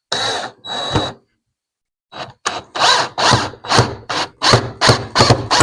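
Power drill driving screws: two short runs, then a string of quick trigger bursts, about three a second.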